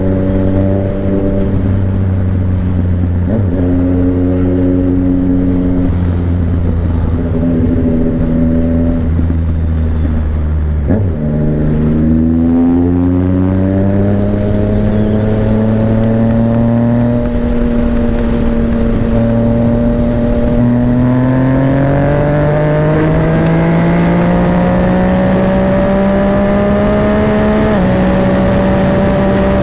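Yamaha MT-09 inline three-cylinder engine running under way, heard from the rider's seat. Its pitch climbs slowly as the bike accelerates and drops back at several gear changes, with wind noise underneath.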